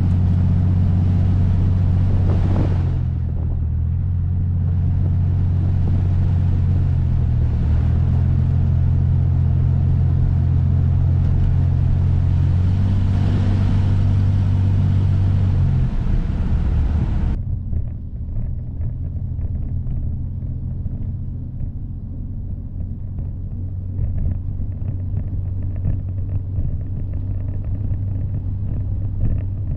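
A 1963 Chevrolet Corvair's air-cooled flat-six running steadily as the car is driven, a low rumble. About seventeen seconds in the higher hiss cuts off suddenly, leaving only the lower rumble.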